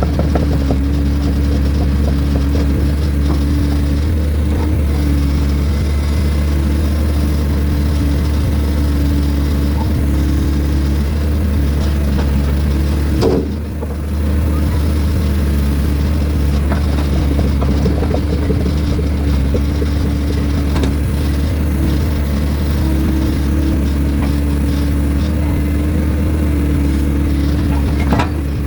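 Heavy equipment's diesel engine running steadily at an even speed, a constant low drone with a steady hum over it; the level drops briefly about halfway through.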